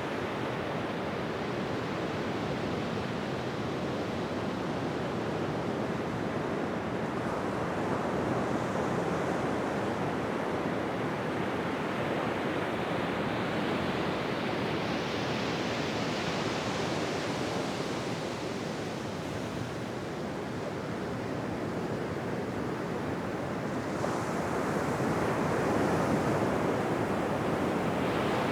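Ocean surf washing onto a beach: a continuous hiss of breaking waves that swells and eases slowly, with one wave building about halfway through and another building near the end.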